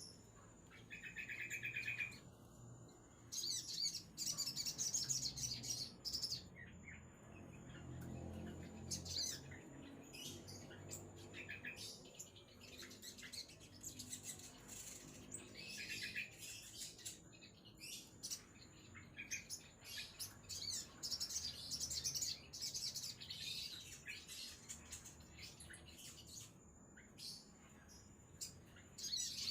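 Sogon songbird chirping and singing in short, high-pitched bursts, on and off throughout.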